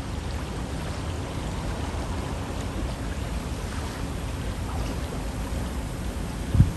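Steady rush of a flowing river, with a low rumble underneath and a brief low thump near the end.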